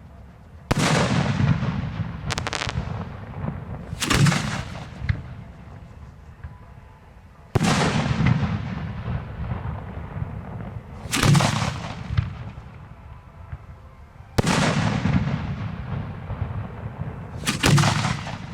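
Aerial fireworks display heard close to the firing site: heavy booms come about every three to four seconds, each followed by a long rumbling echo that dies away.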